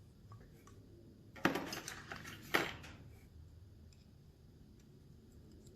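Two sharp metal clinks about a second apart, the first trailing into a second of scraping, then a few faint ticks: hand tools and hydraulic cylinder parts being handled while a stiff plastic seal is worked onto the piston.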